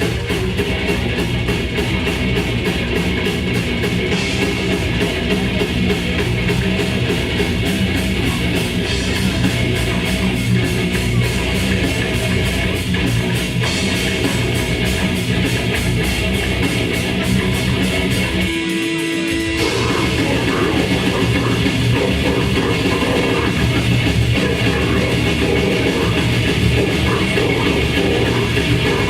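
Live grindcore band playing at full volume: distorted guitars and bass over a drum kit. About two-thirds of the way through the band stops briefly, leaving one held note, then comes back in.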